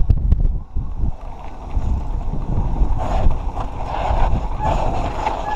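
Mountain bike descending a dirt trail: wind buffeting the microphone and the tyres rumbling over the ground, with knocks from the rough surface. About three seconds in, a buzzing rattle from the bike grows louder.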